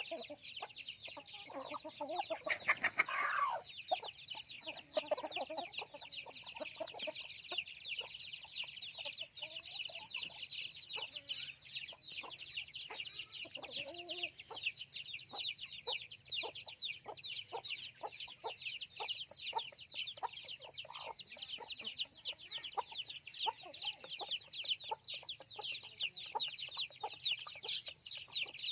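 A flock of chickens: a dense, continuous chorus of high, rapid peeping from chicks, with lower clucking underneath. There is one louder call about three seconds in.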